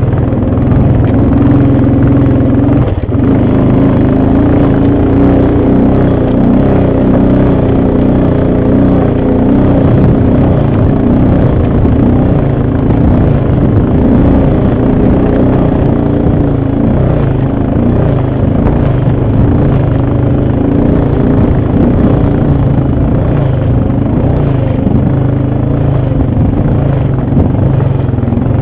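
Loud, close ATV engine running under way, its pitch rising and falling slightly as the throttle changes.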